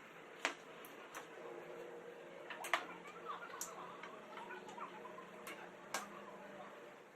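A few scattered sharp clicks and taps, the loudest about half a second in, near the middle and about six seconds in, over a faint steady hum.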